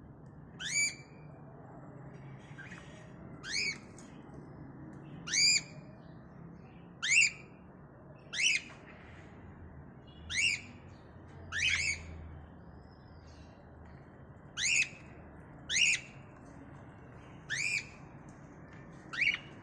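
Cockatiel calling: about eleven short, sharply rising squawking calls, one every second or two.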